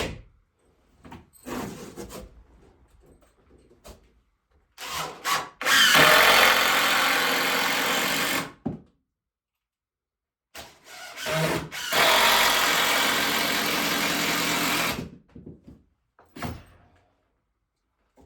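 Power drill running in two sustained runs of about three seconds each, each preceded by a few short trigger starts, while working wood.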